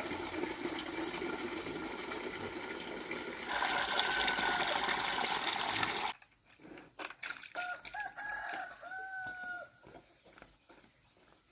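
Rooster crowing twice, first over a steady rush of running water that cuts off suddenly about six seconds in, then again in the quiet that follows, among scattered clicks.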